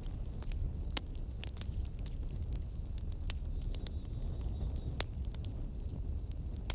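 Wood fire crackling in a fireplace: irregular sharp pops and snaps, the loudest about five seconds in, over a steady low rumble of the flames.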